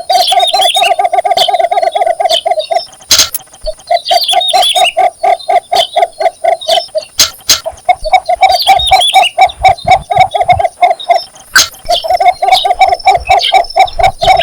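Cinnamon bittern giving its mating call: a fast, even run of low clucking notes in four bouts of about three seconds each, with short pauses between them. Another bird chirps higher over the top, and there are a few sharp clicks.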